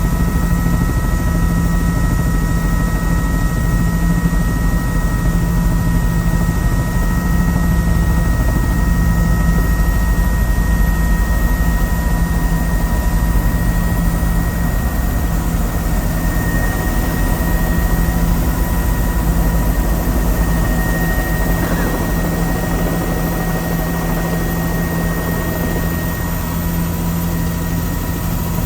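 Helicopter heard from on board: a steady, loud rotor drone with a pulsing low beat and a constant high turbine whine. It eases off slightly in level near the end.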